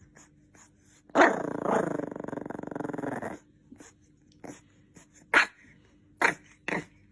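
A dog growls for about two seconds, the growl turning rough and pulsing at the end, then gives three short barks.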